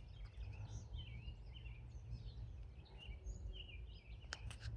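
Faint bird chirps and calls, many short notes that rise and fall in pitch, over a low steady rumble; a couple of sharp clicks near the end.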